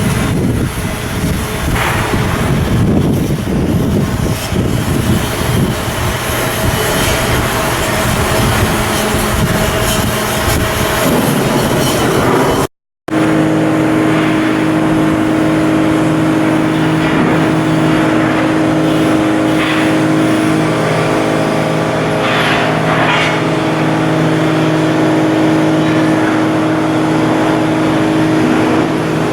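Heavy machinery running steadily with a loud rumble. After a short break partway through, a steady engine hum with a clear, constant pitch.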